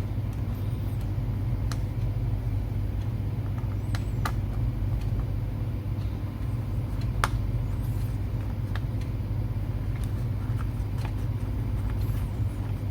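Steady low rumble, with a few faint sharp clicks about 2, 4 and 7 seconds in.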